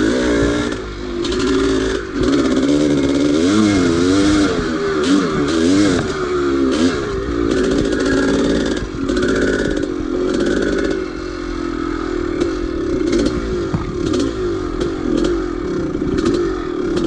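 1983 Maico 490's single-cylinder two-stroke engine under load on a hill climb, its revs rising and falling several times in the first few seconds, then holding steadier. Short knocks and clatter run through it.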